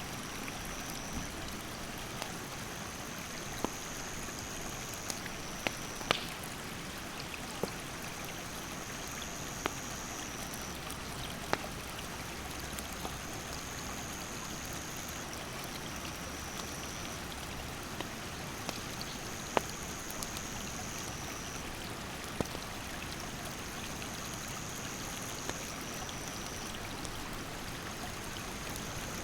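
A rushing mountain stream flowing steadily, with a campfire's burning firewood giving sharp, scattered crackling pops every few seconds. A high, thin insect song repeats in phrases a couple of seconds long above the water.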